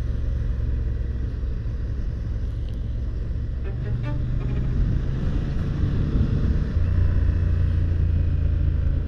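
Honda Hornet 1000 motorcycle engine running under way, with wind noise over the microphone. The engine note changes about four seconds in and again about seven seconds in.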